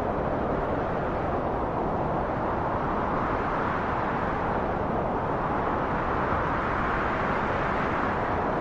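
Strong, steady wind blowing as a dense rushing noise, swelling slightly in gusts partway through and again near the end.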